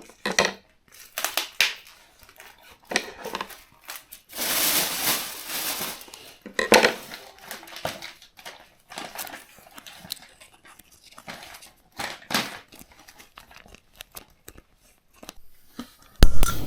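Plastic food packaging crinkling and being torn open, with light clicks and knocks of handling, and one longer rustle of tearing about four seconds in. A short loud low thump just before the end.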